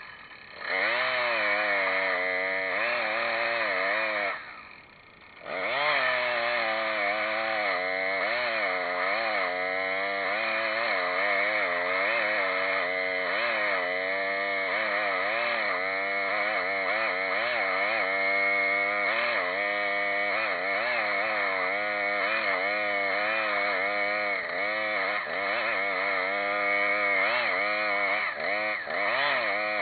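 Chainsaw running and cutting sweet gum wood, its engine pitch wavering up and down as the chain bogs and recovers in the cut. About four seconds in it drops back briefly for a second or so, then resumes cutting.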